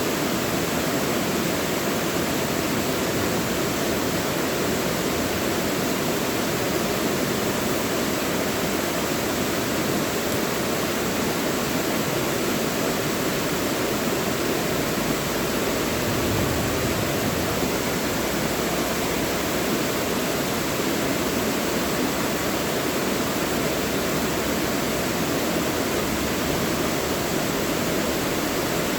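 Mountain valley stream rushing steadily over rocks, a constant dense wash of water noise without breaks.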